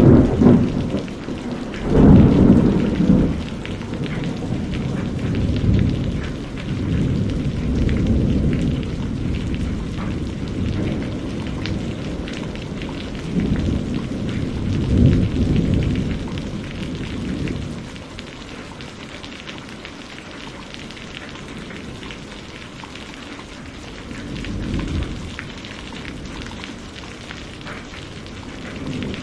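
Steady heavy rain with low rolls of thunder that swell and fade several times: strongest about two seconds in and again around fifteen seconds, with a softer roll near twenty-five seconds.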